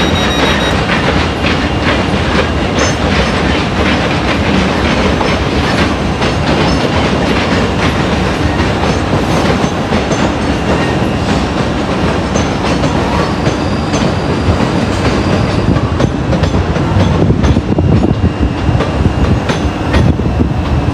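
A train running past at close range, its wheels clicking over rail joints and pointwork, with a steady rumble that grows a little louder near the end.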